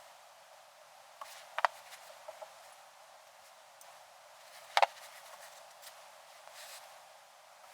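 A few sharp, isolated clicks and taps of small hard objects being handled, the loudest nearly five seconds in.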